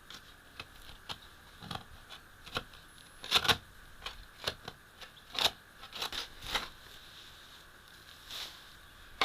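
Shovel digging into soil: irregular chops and scrapes of the blade about once a second, the loudest pair about three and a half seconds in.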